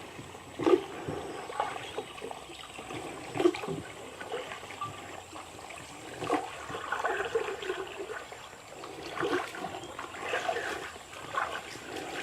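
Water splashing and trickling beside a small boat, with a louder splash about every three seconds.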